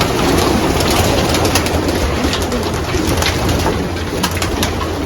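A loft full of racing pigeons cooing together, with many scattered sharp clicks over a steady low hum.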